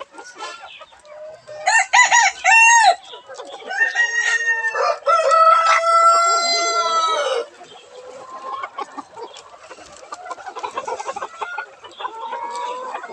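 Cochin chickens: a rooster crows, with short loud calls about two seconds in, then a long crow ending in a held note from about four to seven seconds in. Softer clucking fills the rest.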